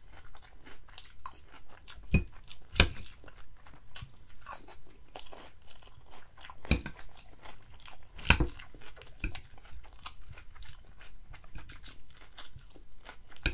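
Close-up chewing and crunching of crisp lettuce salad, a steady run of small wet crackles with four louder sharp clicks.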